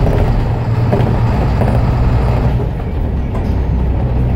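Blue Bird school bus's International DT360 diesel engine running steadily as the bus drives along, a continuous low drone.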